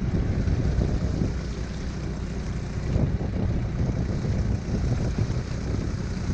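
Strong wind rumbling on the microphone over the steady drone of a motorized kayak's drive unit running underway.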